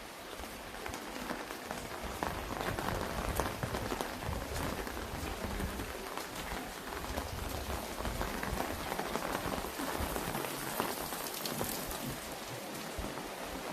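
Steady rain with many close drop ticks, rain pattering on an umbrella held overhead, over a dense hiss of rainfall.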